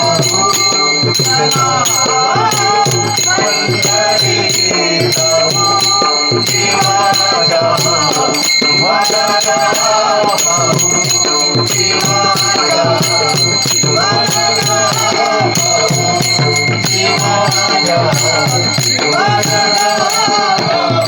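Marathi abhang devotional music: a melody in phrases of a second or two over a steady beat with the continuous jingling and ringing of small hand cymbals.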